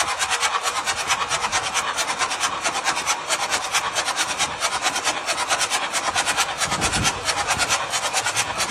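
A machine running with a fast, even mechanical rattle, about eight beats a second.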